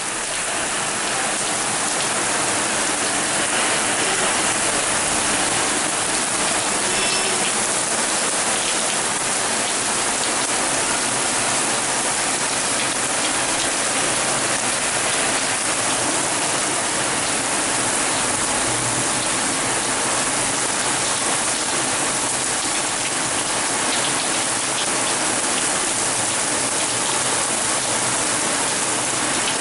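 Heavy rain falling steadily, a dense continuous hiss of rain on surfaces.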